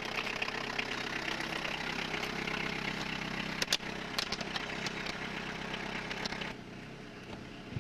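Car engine idling steadily, the turbodiesel of a Citroën BX TZD Turbo, with a couple of clicks about halfway through. The sound drops quieter about six and a half seconds in.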